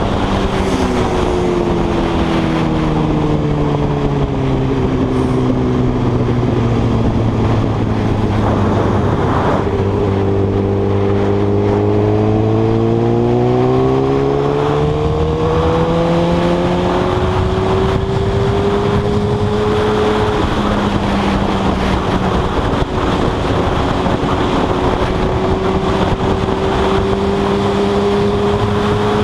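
Suzuki GSX-R1000 inline-four engine heard from on board while riding. Its note falls slowly over the first ten seconds or so, rises again until about two-thirds of the way in, then holds and creeps up, over a steady rush of wind and road noise.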